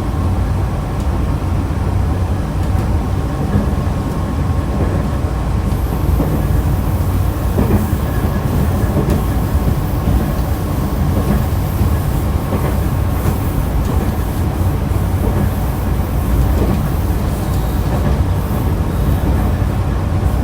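Nankai electric train 2036F running at speed: a steady low rumble of wheels on rail, with a few faint irregular clicks.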